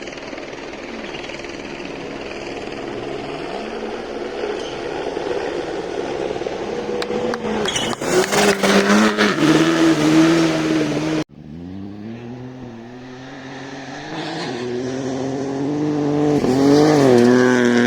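Rally car engines at racing speed: one car approaches, rising in pitch and getting loud with sharp cracks about eight seconds in, then cuts off abruptly; a second car then approaches, its engine note rising and falling with gear changes as it gets louder.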